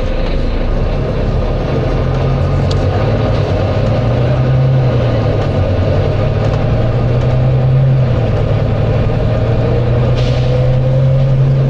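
Volvo B9TL bus's nine-litre six-cylinder diesel engine running under way, its drone rising and falling in pitch. A brief hiss comes through near the end.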